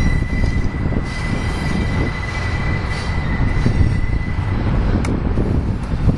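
Double-stack container train cars rolling past with a heavy, steady rumble. A thin, steady wheel squeal is heard for the first two seconds and then fades. A single sharp clank comes about five seconds in.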